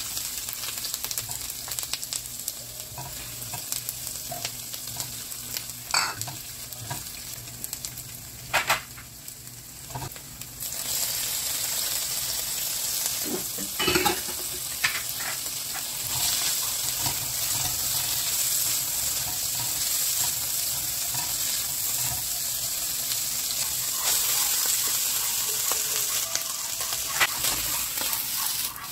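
Onion, then shrimp and diced sausage, sizzling in oil in a nonstick wok, stirred with a spatula that scrapes and knocks against the pan a few times. About ten seconds in, the sizzle grows louder and stays steady.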